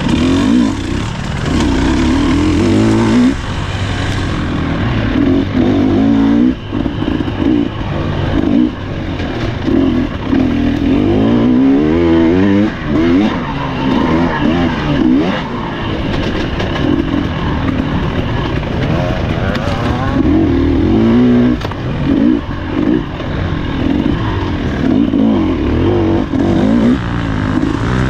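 Husqvarna TE300 two-stroke dirt bike engine revving up and down over and over as it is ridden hard off-road, the throttle snapping shut briefly several times between pulls.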